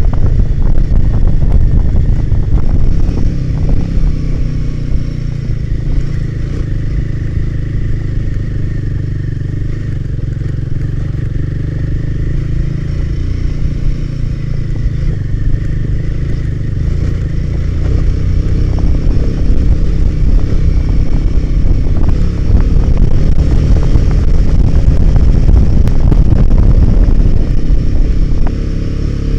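Motorcycle engine running on a trail ride, under a heavy low rumble with scattered knocks. It eases off a few seconds in and picks up again past the halfway mark.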